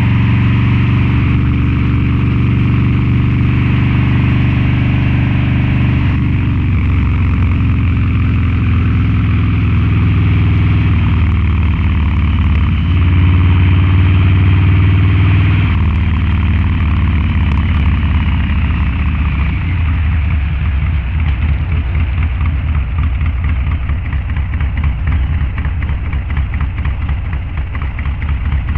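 Harley-Davidson Low Rider's 129 cubic inch V-twin running through a Two Brothers Racing exhaust, riding at steady throttle with its note stepping a few times. About two-thirds of the way in it rolls off, and the exhaust breaks into an uneven, pulsing lope.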